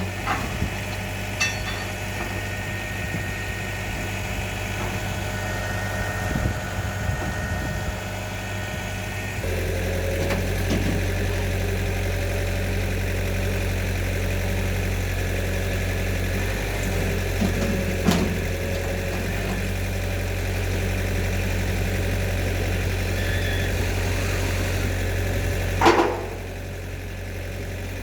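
Engine of a hydraulic concrete pile-pressing rig running steadily, getting louder about nine and a half seconds in as it comes under more load. There are a few sharp metal clanks, the loudest near the end.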